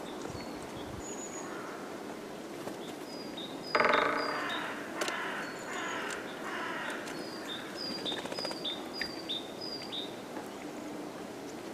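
Forest birds calling: one loud, harsh call about four seconds in, followed by a few fainter ones of the same kind, over many short, high chirps from small birds.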